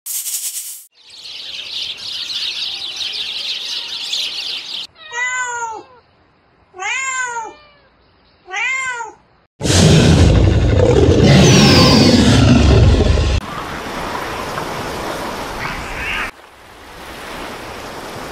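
A steady hiss for a few seconds, then three drawn-out animal calls, each rising and then falling in pitch. These are followed by a loud, deep roar lasting about four seconds, and then a softer rushing noise.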